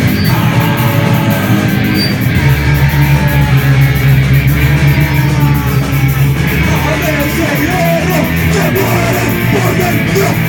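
A rock band playing live: distorted electric guitars, bass and drums with cymbals in an instrumental passage, with a guitar line wavering in pitch in the second half.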